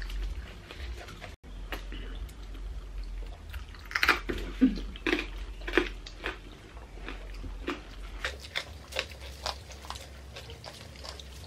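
People chewing and crunching food close to the microphone: a run of crisp crunches and mouth smacks, several a second, starting about four seconds in.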